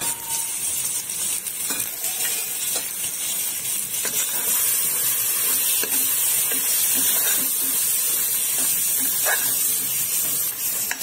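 Onion-tomato masala with freshly added turmeric and chilli powder sizzling in oil in a metal pot, a spatula stirring it with light scrapes and taps against the pot. The sizzle is a steady hiss that grows a little louder after about four seconds.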